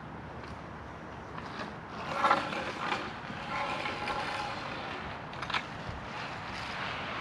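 Concrete mixer truck's engine running steadily during a pour, with a louder patch of scraping and knocking about two seconds in and a sharp click near the end.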